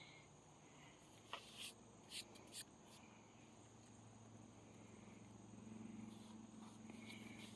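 Faint crickets chirping steadily over a low hum, with a few short sharp clicks about one and a half to two and a half seconds in.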